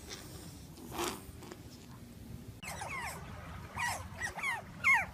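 Otters chirping: a run of short, high squeaks, each sliding down in pitch, coming several to the second from about two and a half seconds in.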